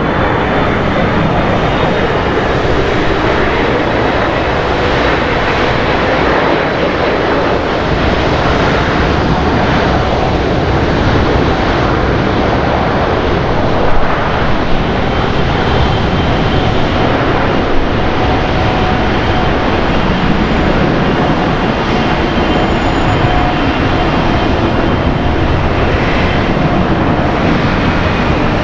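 Wide-body jet airliner's engines running loud and steady, a dense rumble with a faint high whine over it.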